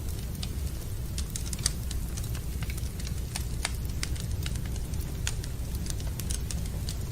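Wood fire burning in a fireplace: a steady low rumble with frequent, irregular sharp crackles and pops from the burning wood.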